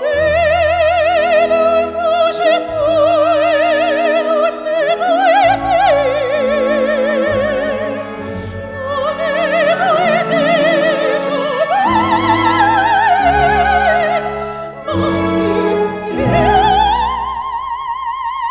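Operatic singing in a high voice with a wide vibrato over classical accompaniment, the melody rising and falling and ending on a long held high note.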